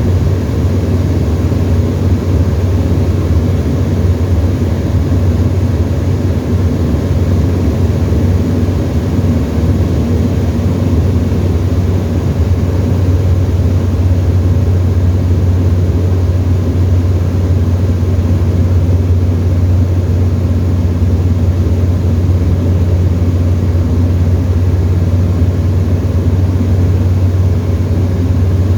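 Steady engine and propeller drone of a Tecnam light aircraft heard inside the cockpit, held at a constant power setting with no change in pitch or level.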